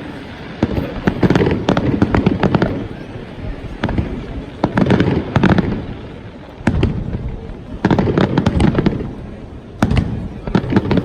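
Fireworks display: volleys of rapid crackling bangs come in clusters every second or two, over deep booms.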